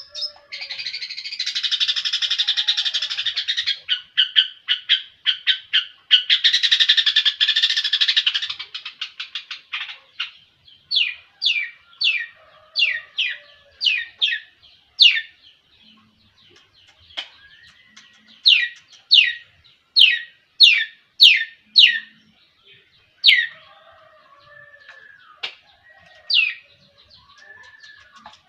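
Long-tailed shrike (cendet) singing: two long, rapid, buzzy trills, then a run of sharp, separate notes that sweep down in pitch, about one to two a second, with pauses between the runs.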